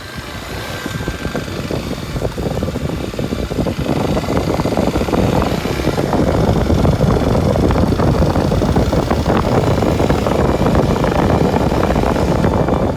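Kawasaki Super Sherpa's single-cylinder 250 cc engine running as the bike rides along, mixed with dense rushing and crackling noise, getting louder over the first several seconds and then holding steady.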